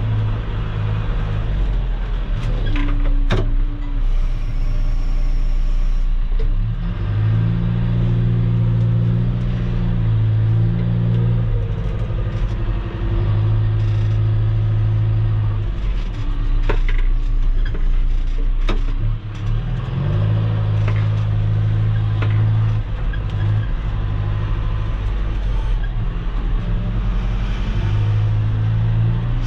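Heavy equipment engine running under varying load, the low engine note swelling and easing in stretches as the machine works, with a few sharp clanks.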